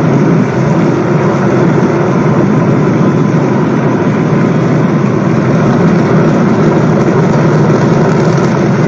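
SpaceX Starship Super Heavy booster's rocket engines firing during liftoff and early ascent: a loud, steady, even noise with no breaks.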